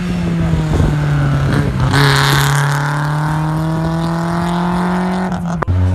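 Rally car engine pulling hard up through the gears. Its pitch drops at an upshift about two seconds in, climbs steadily, then drops again at another quick shift near the end.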